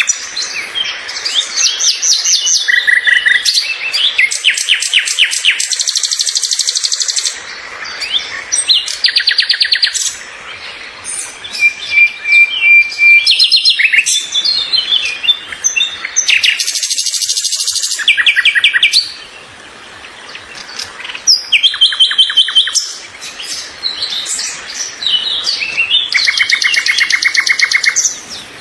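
A songbird singing loudly and continuously: a long, varied song of rapid trills and chirps mixed with short whistled notes, with brief pauses between phrases.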